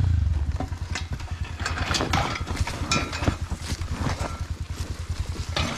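Dirt bike engine running a little higher at first, then settling to an even, fast idle putter that stops just before the end.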